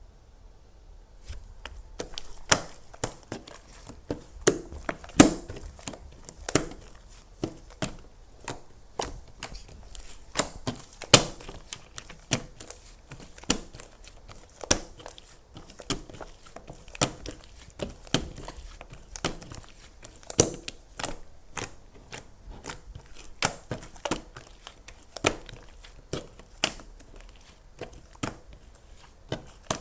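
Crisp crunching and crinkling of a handmade object being worked close to the microphone: a run of sharp, irregular snaps, about one or two a second, starting about a second in.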